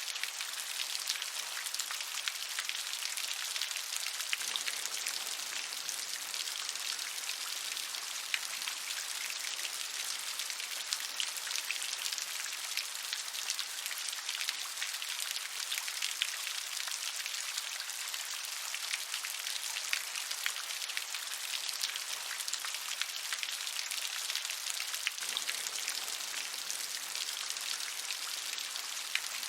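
Steady rain falling, a dense even wash of many small drop hits with no thunder.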